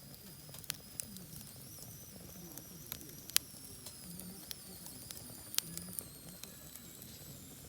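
Wieners roasting over a campfire, giving off a thin, high-pitched squeal that drifts slowly lower, as steam escapes through the casing. Sharp crackles and pops from the fire come throughout, the loudest a little over three seconds in.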